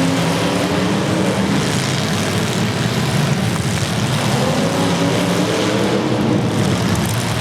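Demolition derby car engines running loudly and steadily, their pitch shifting slightly as they rev.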